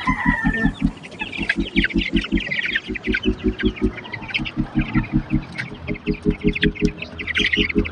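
A flock of broiler chickens clucking and peeping. Under it runs a fast, even low pulsing.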